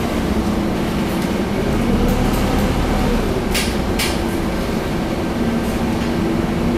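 Scania double-decker bus engine running, heard from inside the bus, its pitch dipping slightly and then rising again. Two short hisses come about three and a half and four seconds in.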